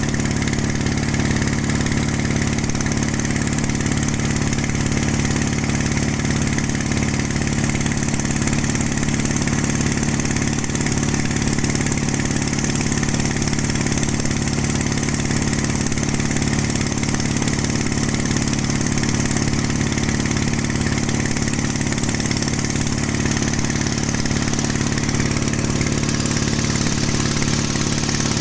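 A pompong boat's single-cylinder 1115 diesel engine running steadily at an even speed.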